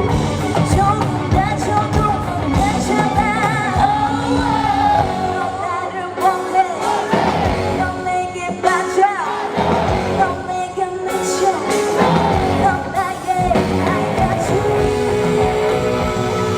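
Live pop performance through a concert PA: a female singer sings with wide vibrato over loud backing music. The recording distorts on the powerful vocals.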